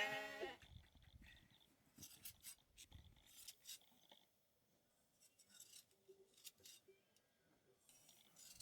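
A sheep's bleat trails off in the first half second, followed by near silence with a few faint clicks and scrapes.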